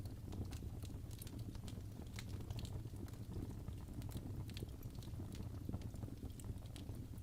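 Crackling fireplace: irregular sharp pops and snaps from burning wood over a steady low rumble of the fire.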